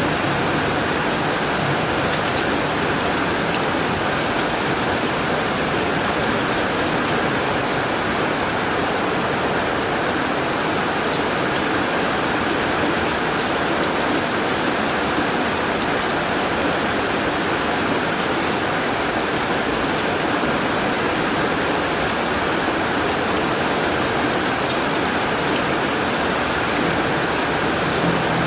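Heavy rain drumming steadily on a tin roof, a dense hiss with many separate drop ticks on the metal.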